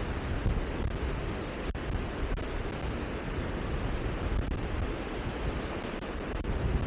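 Steady rushing noise, heaviest in the low end and rising and falling unevenly in gusts.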